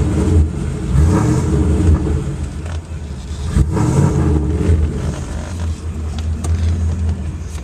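Mercedes engine running through a new aftermarket exhaust, a deep, throaty note that swells and eases a few times.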